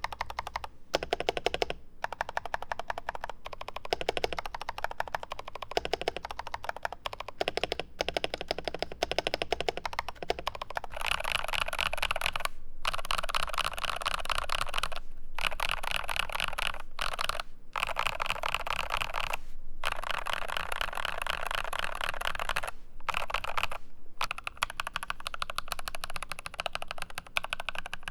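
Keys of an IQUNIX ZX75 Gravity Wave wireless mechanical keyboard being typed on in quick runs of clicks. The typing becomes faster and more continuous about eleven seconds in, with a few short pauses.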